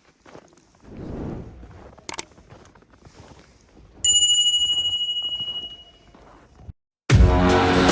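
A single bell-like ding that rings out and fades over about two seconds, after faint rustling and a sharp click. Music starts abruptly near the end.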